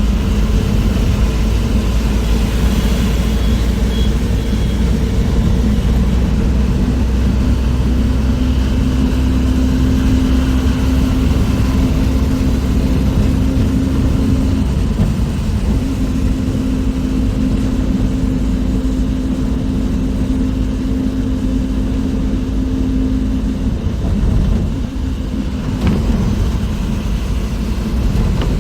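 Moving bus heard from inside: a steady low engine drone and road rumble. A held engine hum drops away about 24 seconds in, with a brief dip in loudness.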